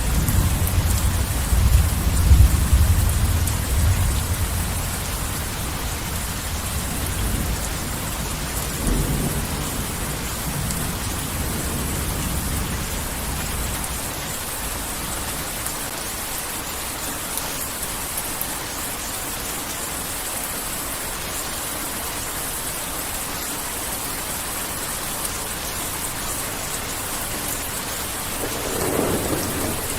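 Heavy rain falling steadily with thunder. A low rumble of thunder dies away over the first dozen seconds, and a new roll of thunder builds near the end.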